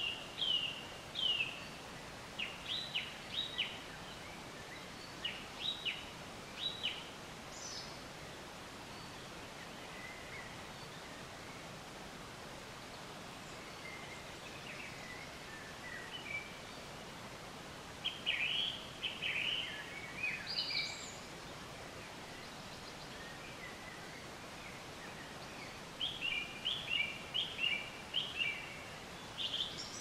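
Forest birds singing: bursts of short, quick chirps, several in a row, with a quiet stretch of several seconds in the middle, over a steady background hiss.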